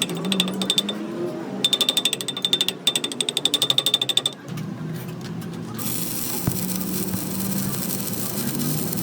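Ratchet wrench clicking rapidly with a sharp metallic ring, in two runs of about a dozen clicks a second. A steady hiss starts about six seconds in.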